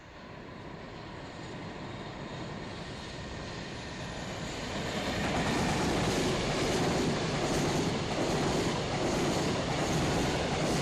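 Electric-hauled container freight train approaching, growing louder over about five seconds, then running past with a steady rumble and a rhythmic wheel clatter.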